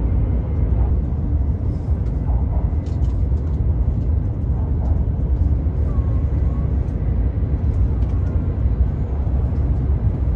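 Steady low rumble inside the cabin of a high-speed train running at speed.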